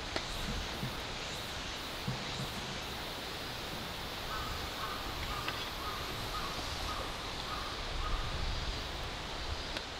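Outdoor ambience with a steady background hiss and a few sharp crackles from a wood campfire. From about four seconds in, a bird calls in a quick run of short, repeated notes for about three seconds.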